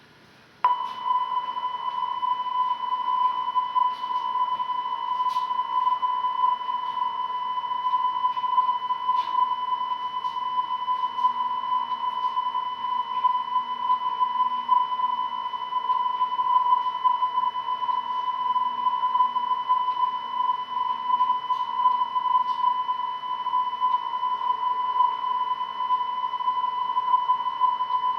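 A steady electronic test tone, a single unwavering high pitch with faint overtones, cuts in suddenly about a second in and holds. It is the kind of tone recorded at the end of a VHS tape.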